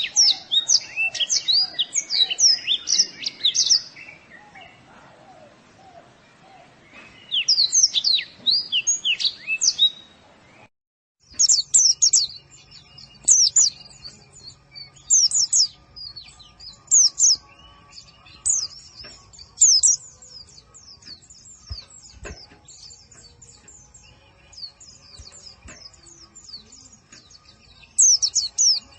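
White-eye (pleci) song on a training recording: bursts of rapid, high-pitched twittering chirps. There is a pause and a short cut-out about ten seconds in. After that, short phrases come every second or two over a faint low hum.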